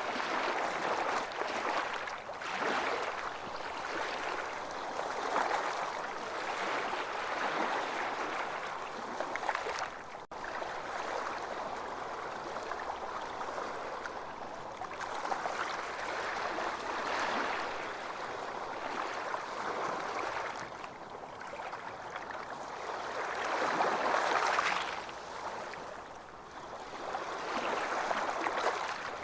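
Ocean surf breaking and washing up on a beach: a steady rush of water that swells and eases every few seconds, with the biggest swell near the end. The sound drops out for an instant about ten seconds in.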